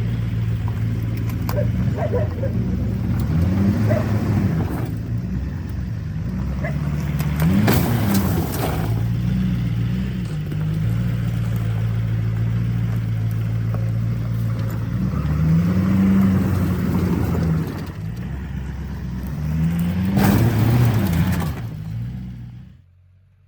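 Vehicle engine revving up and down repeatedly, its pitch rising and falling several times. Two louder noisy bursts come about a third of the way in and near the end, and the sound cuts off suddenly just before the end.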